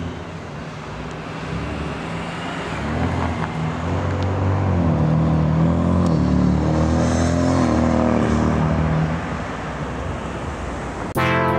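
A car's engine running as it drives past, its revs rising and falling a few times, loudest in the middle. Music cuts in suddenly near the end.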